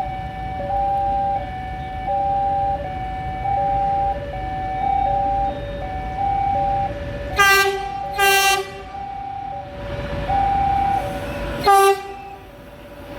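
Railway level-crossing alarm sounding its steady two-tone high-low warning. A locomotive horn blows twice about seven seconds in and once more, briefly, near the end, as a train approaches.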